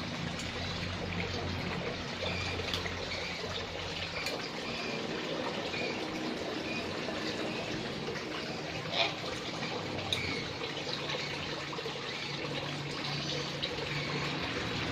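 Steady trickling, running-water noise with faint voices in the background and a single sharp click about nine seconds in.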